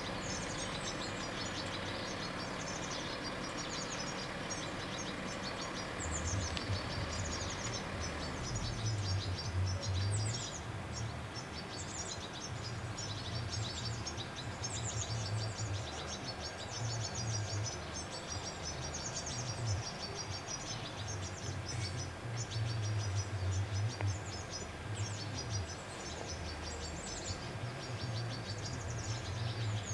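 Small birds chirping and twittering over outdoor ambience, with a low rumble that comes and goes.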